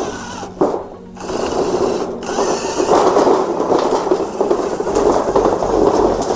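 Small electric gear motors of a homemade RC tractor running with a busy whirring grind. The sound cuts out briefly twice in the first couple of seconds, then runs on strongly.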